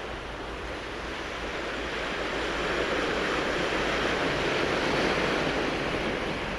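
Sea waves washing onto a cobble beach, the surf swelling to a peak about five seconds in and then easing.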